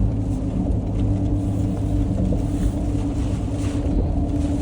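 Car driving in the rain: a steady low rumble of engine and road noise with a held hum.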